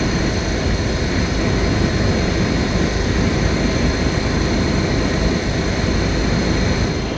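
Steady, loud rumble and rush of a moving vehicle, with no pauses and a faint steady high whine over it.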